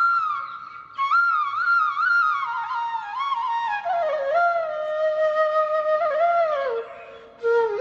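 Background music: a solo flute playing a slow, ornamented melody that slides between notes and descends over the phrase, with two brief breaths in the line.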